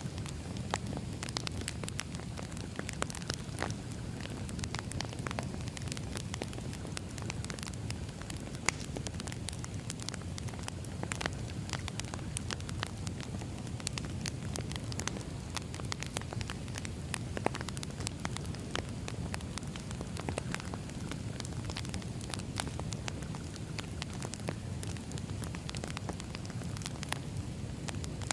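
Wood fire burning: a steady low rumble from the flames with frequent, irregularly spaced sharp crackles and pops from the burning firewood.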